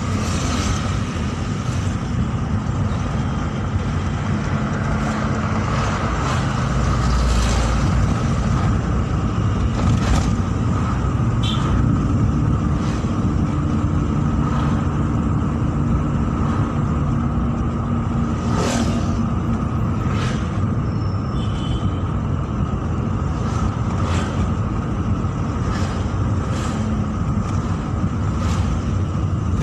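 Steady engine and road rumble of a car being driven, with a few brief light clicks and knocks.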